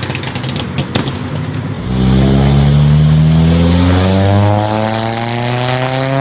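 Performance car engine with rapid exhaust pops and crackles, then about two seconds in it gets louder and accelerates hard, its pitch rising steadily for about four seconds.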